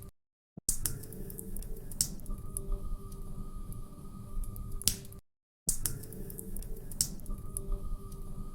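Log fire crackling in a fireplace: a steady low rumble of burning with sharp pops and snaps scattered through it. The sound cuts out to complete silence twice, for about half a second each time, just after the start and again about five seconds in.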